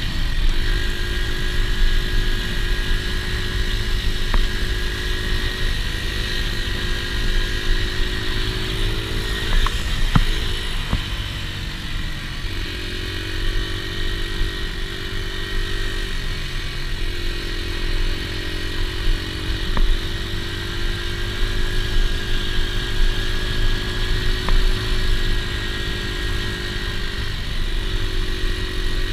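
Dirt bike engine running, its pitch stepping up and down several times as the engine speed changes.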